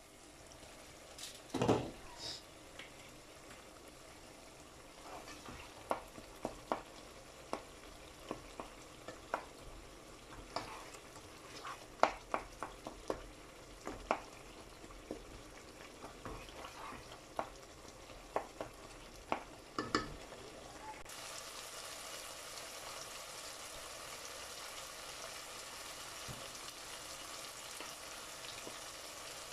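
Wooden spatula stirring a tomato and onion masala frying in oil in a pot, tapping and scraping against the pan every half second or so over a low sizzle, with one louder knock about two seconds in. About two-thirds of the way through the taps stop and the sizzle turns steadier and brighter.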